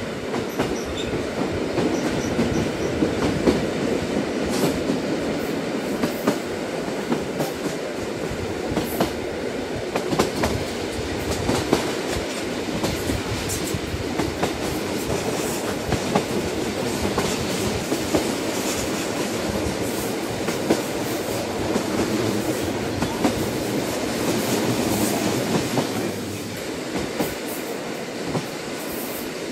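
Train running along the track: a steady rumble with scattered clicks and knocks from the wheels on the rails.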